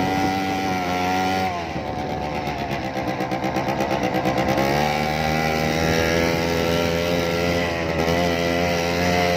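Motorcycle engine running loud and steady, then its pitch drops and wavers with a pulsing sound for a few seconds, before it settles into a steady note again about halfway through.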